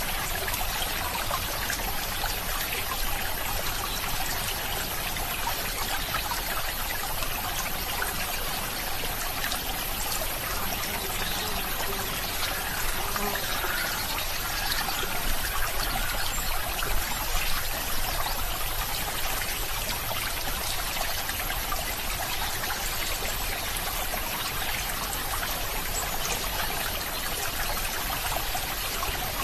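Running water of a small stream, trickling and flowing steadily over stones.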